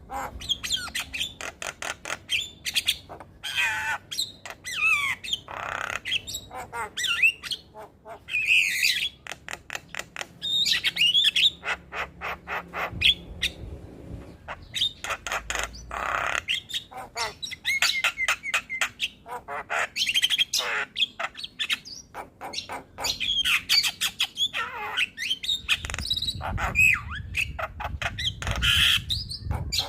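Javan myna (jalak kebo) singing a busy, unbroken chattering song: rapid runs of sharp clicks and harsh squawks mixed with rising and falling whistles. A low rumble sits under it near the end.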